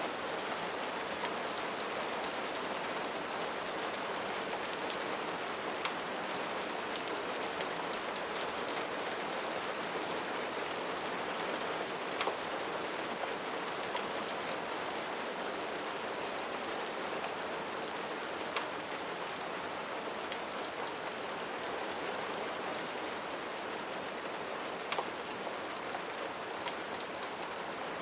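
Steady rain falling on a surface, an even hiss with a few sharp ticks scattered through it.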